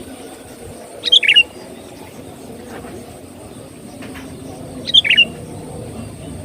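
Sooty-headed bulbul (kutilang) giving a short, bubbly few-note call twice, about four seconds apart, over a steady low background noise.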